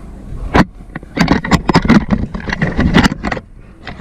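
Airsoft gunfire: a rapid, irregular string of sharp pops, thickest from about one to three and a half seconds in, over a low rumble.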